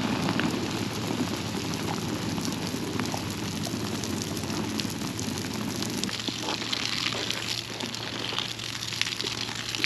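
A campfire being doused with water: steady hissing and splashing with scattered crackles as the water hits the hot coals, easing a little after about six seconds.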